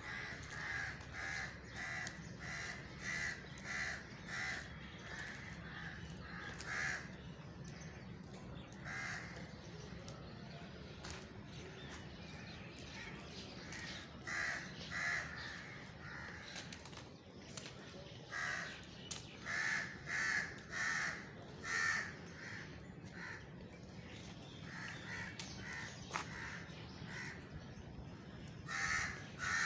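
A bird calling over and over, in bouts of short repeated calls about two a second, over steady low background noise.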